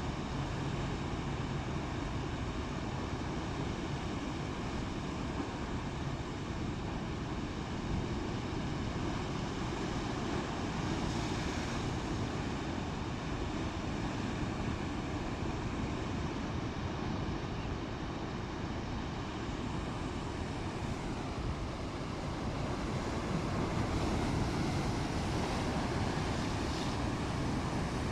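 Wind and rough, heavy seas: a steady rumbling rush of wind and waves, with wind buffeting the microphone, growing a little louder near the end.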